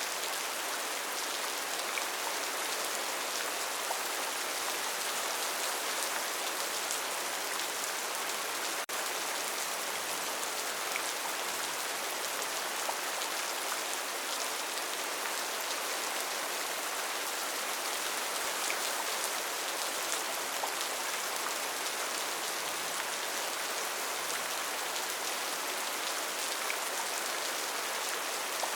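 Steady rainforest rain: an even hiss of rainfall with scattered individual drops ticking through it.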